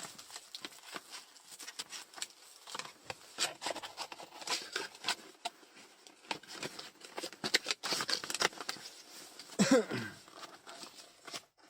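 Thin plastic bag crinkling and rustling in the hands as a small boxed item is packed into it, with irregular crackles and taps. A short falling pitched sound comes near the end.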